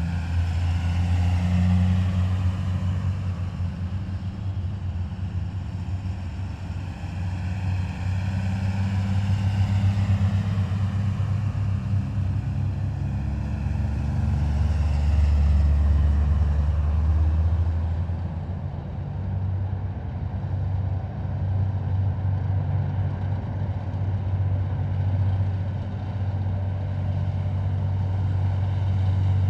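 Heavy military vehicles of a parade column driving past one after another, their diesel engines running low and loud, with the pitch dropping as each one passes.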